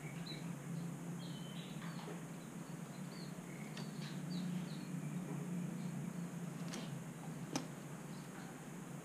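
Short, faint bird chirps now and then over a steady low hum, with a few sharp clicks, the loudest about seven and a half seconds in.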